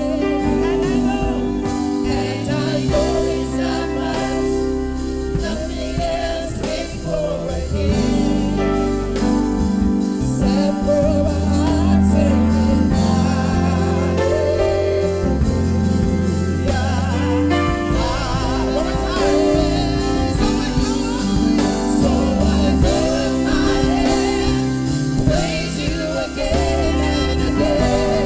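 Gospel worship music: singing over a band with a steady bass and held chords.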